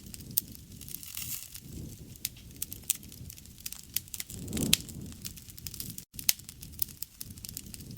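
Wood fire crackling, with frequent sharp pops over a low rustle of flame. A louder low swell comes about four and a half seconds in. The sound drops out for an instant about six seconds in.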